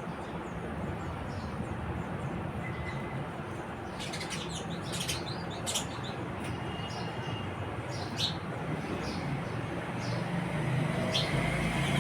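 House sparrows chirping in short, scattered calls, with a busier run of chirps about four to six seconds in, over a steady background hum.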